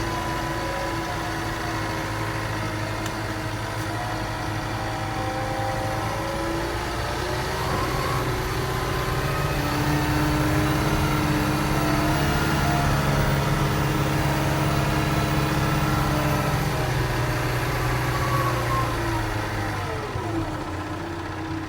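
A Venieri 10.33C backhoe loader's 106-hp four-cylinder Deutz diesel engine running steadily. It rises somewhat about halfway through, then its pitch falls and it settles lower near the end.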